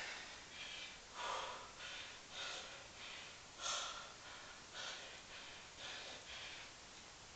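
A man breathing hard and fast through exertion during a long set of one-leg pistol squats, in quick rhythmic puffs of about one breath in and out every second or so.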